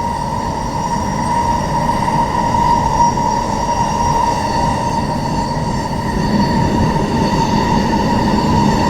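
Passenger train running at speed, heard from on board: a steady rumble of wheels on rail with a constant high whine over it.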